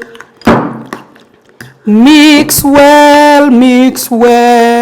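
A single thunk about half a second in, then a woman's voice singing long held notes with a slight vibrato.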